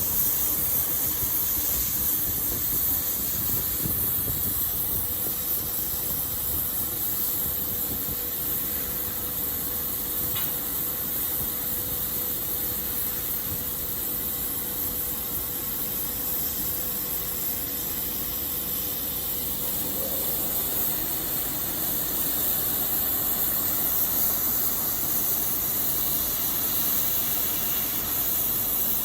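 CNC laser cutter cutting aluminium: a steady hiss of assist gas at the cutting head over a low machine rumble. A faint steady tone stops about two-thirds of the way through.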